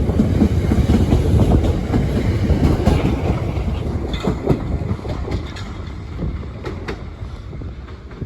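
Train running past on the rails, its wheels clacking over the rail joints, the rumble fading as it moves away.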